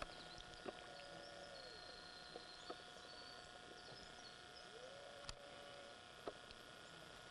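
Near silence: faint marsh ambience with a few soft clicks and two faint drawn-out calls, one bending down in pitch and one rising.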